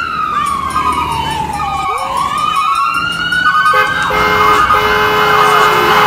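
Fire engine siren wailing: one slow fall in pitch over about two seconds, then a rise. About four seconds in, several steady held tones join and the sound grows louder.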